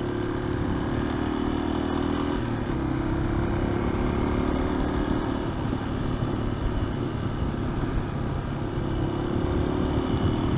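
Small dual-sport motorcycle engine running steadily under way, its note easing off around the middle and picking up again near the end, over a constant rush of riding noise.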